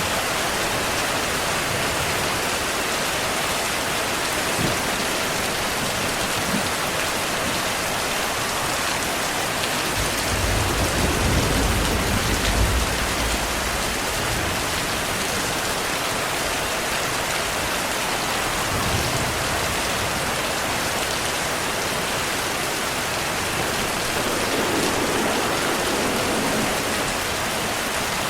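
Steady heavy rain. About ten seconds in, a low rumble of distant thunder rolls for a few seconds, with fainter low rumbles later.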